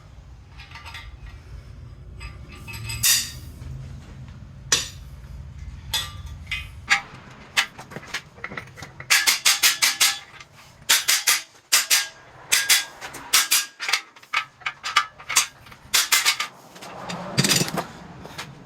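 Hammer blows on a cam bearing installer, driving a new cam bearing into the engine block's cam bore. The blows come in quick clusters of sharp metallic strikes, starting about a third of the way in. A low steady hum stops at about the same point.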